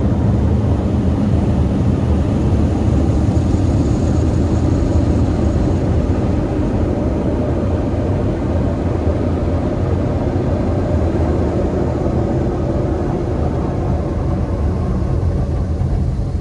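Automatic car wash air dryer blowers running with a steady rushing noise and a low hum underneath.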